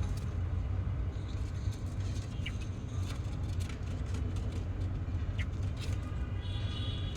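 A few short, high chirps from Java sparrows, with a brief longer call near the end, over a steady low rumble.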